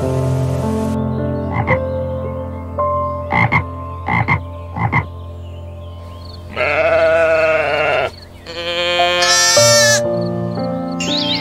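Sheep bleating twice over soft background music: a long wavering bleat a little past the middle, then a higher, brighter one right after it. Before that come a few short calls in quick pairs.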